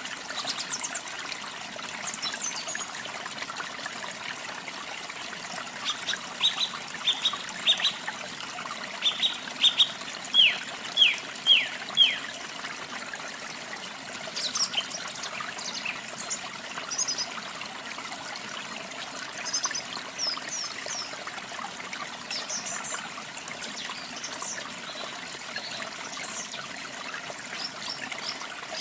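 Running water trickling steadily, with songbirds calling over it. The loudest part is a run of about a dozen short, sharply falling notes in the middle, followed by scattered high chirps.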